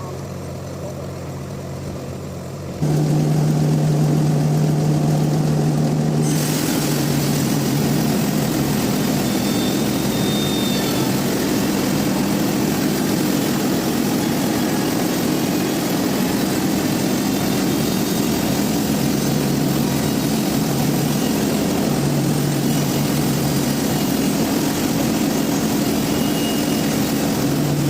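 Sawmill machinery running with a steady engine hum. It gets markedly louder about three seconds in, and a few seconds later a harsh, noisy layer joins and stays.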